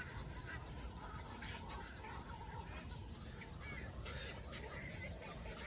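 Birds chirping as they settle to roost: scattered short calls over a steady high insect drone.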